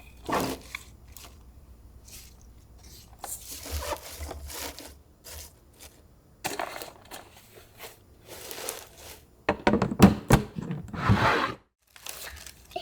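Irregular scrapes, rustles and knocks of kitchen containers and food items being handled, loudest about ten seconds in.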